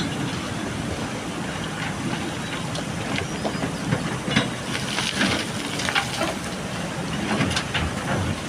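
JCB backhoe loader's diesel engine running steadily, with scattered clattering knocks of gravel and stones, busiest in the second half.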